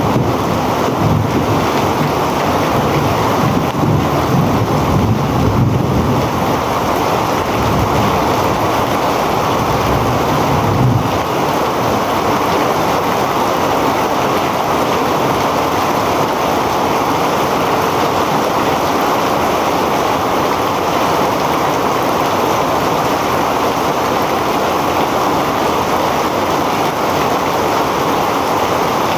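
Heavy rain falling steadily in a downpour. A low rumble of thunder dies away about eleven seconds in, leaving an even rain hiss.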